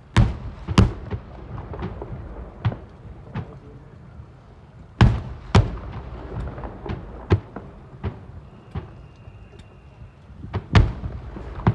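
Fireworks shells bursting in an irregular series of booms and cracks, a dozen or more, each trailing off in echo; the loudest come just after the start, about five seconds in, and near the end.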